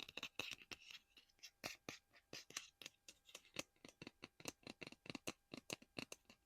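Rapid, uneven tapping on a small hard object, about five or six crisp taps a second, as in fingernail tapping on collectibles.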